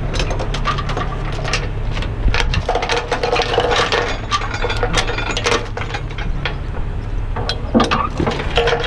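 Steel safety chains clinking and rattling as they are handled and hooked on, in a quick irregular run of metallic clicks, over the low steady running of a truck engine.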